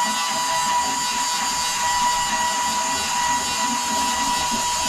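A small electric motor running steadily without a break, giving a constant high whine over a hiss.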